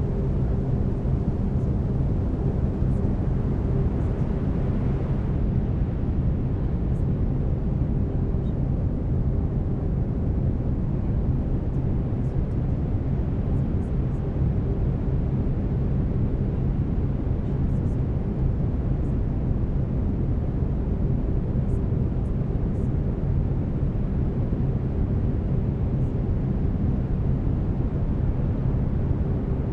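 Brown noise: a steady, deep rumbling hiss, with faint steady low tones from the binaural beat track layered under it.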